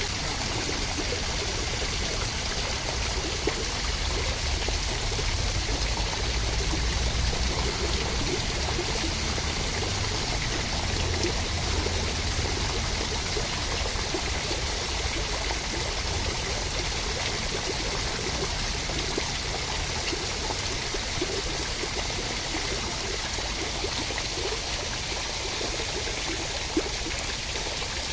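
Continuous, even rush of water with a low rumble underneath.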